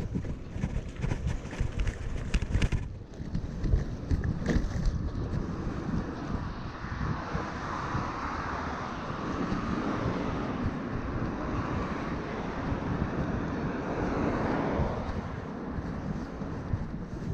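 Wind buffeting the microphone on a moving bicycle, with a few knocks and rattles in the first few seconds. A broad rushing sound swells up about seven seconds in and dies away after about fifteen seconds, like a passing vehicle.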